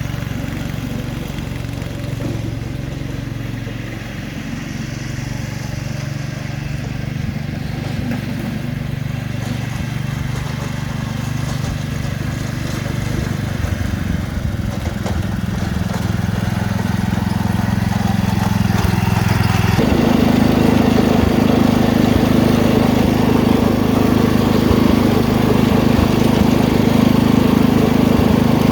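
Wheel Horse 310-8 garden tractor's single-cylinder engine running steadily, its pitch creeping up and then stepping up sharply about twenty seconds in, running faster and louder from there.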